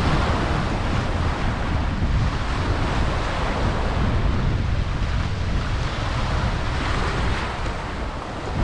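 Wind buffeting the microphone with a heavy, steady rumble, over the continuous wash of rough surf.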